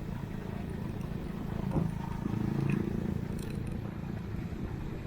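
Outdoor ride noise from a bicycle-mounted camera: a steady low rush of wind and traffic, with a brief low droning hum swelling for about a second near the middle.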